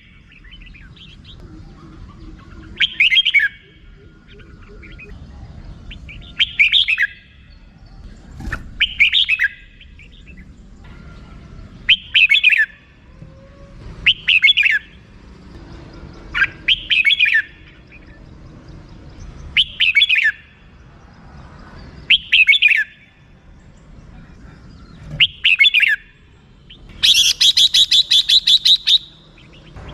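Red-whiskered bulbul calling: short chirpy phrases about every two to three seconds, then near the end a fast two-second run of repeated 'rik' notes.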